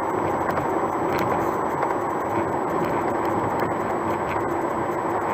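Steady road and engine noise inside a car cruising on the highway, with a few faint ticks and rattles from something loose in the car.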